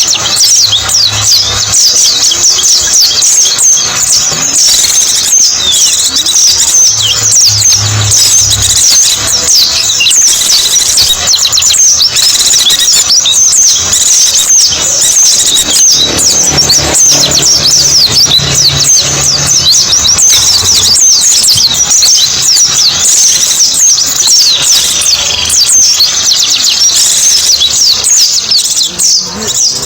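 White-eye (pleci) song: a dense, unbroken stream of rapid, high-pitched twittering chirps, many short downward-sweeping notes a second.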